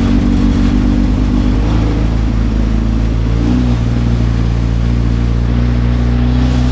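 Race car engine running at fairly steady, moderate revs, heard from inside the stripped, caged cabin, with a slight shift in pitch about three and a half seconds in.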